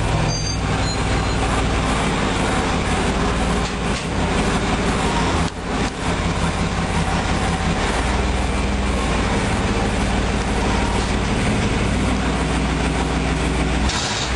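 Chevrolet Astro van's 4.3-litre V6 engine running during warm-up after a cold start, its pitch shifting a few times, with a brief drop in sound about five and a half seconds in.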